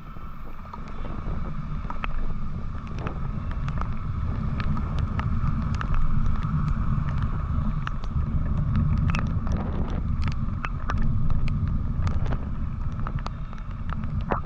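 Wind buffeting the microphone on a moving motorcycle, a heavy low rumble over the road noise, with many sharp ticks scattered through it. It gets louder about a second in and stays loud.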